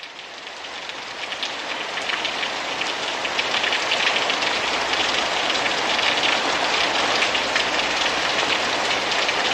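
Rain falling, growing louder over the first three seconds and then steady.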